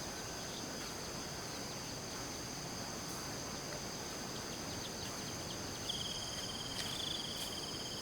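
Chorus of insects trilling steadily outdoors in two high, even tones. A second, lower, slightly pulsing trill joins in about six seconds in.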